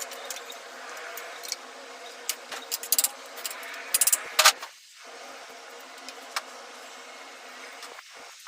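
Metal parts or hand tools clinking and tapping, with a few sharp clusters of clicks, over a steady mechanical hum.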